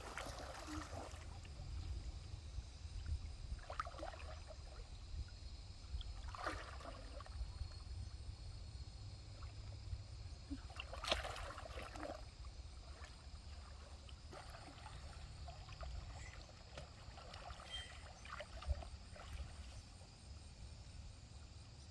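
Stream water trickling over a steady low rumble, with a few scattered small splashes and knocks; the sharpest comes about halfway through.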